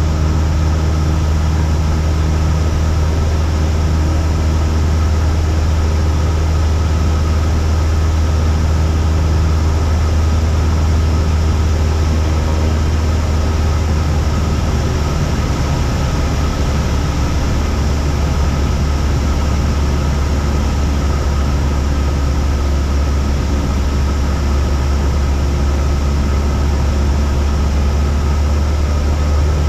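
Cessna 172's piston engine and propeller droning steadily in flight, its tone shifting slightly about halfway through.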